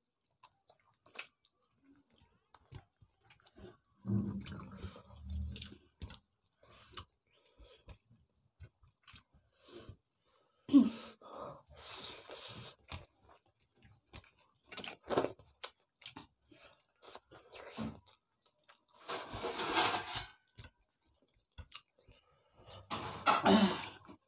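Close-up sounds of people eating rice and fish curry by hand: chewing and wet mouth noises in irregular bursts, with scattered small clicks between them.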